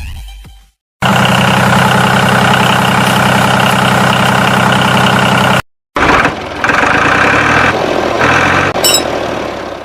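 An engine idling steadily, heard as separate clips that cut off abruptly about a second in and again about five and a half seconds in.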